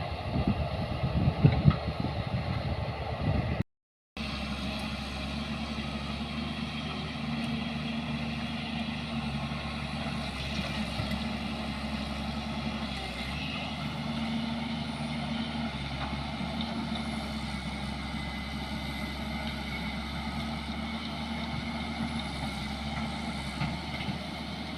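Gusty low rumbling for the first few seconds, then after a brief dropout a heavy vehicle's engine running steadily with a low, even hum.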